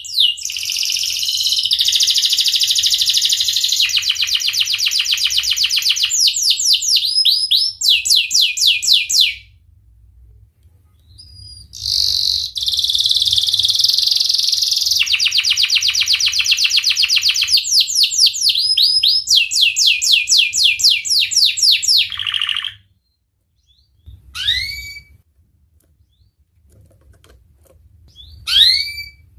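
Domestic canary singing: two long phrases of fast, evenly repeated rising notes, rolling trills each lasting several seconds, with a short break between them. Near the end come only a few short, separate chirps.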